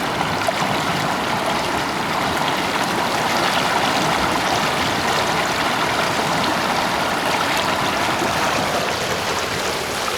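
Fast mountain river rushing and churning over rocks: a steady, loud roar of white water.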